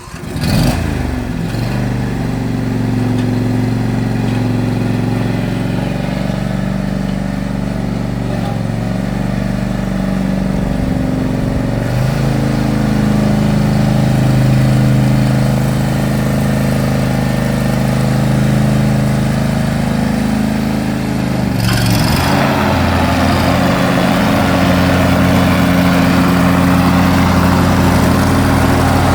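2018 John Deere E120 lawn tractor's V-twin engine starting right at the beginning and then running steadily. About 12 s in it gets a little louder, and about 22 s in the sound changes, with a rushing noise joining the engine from then on.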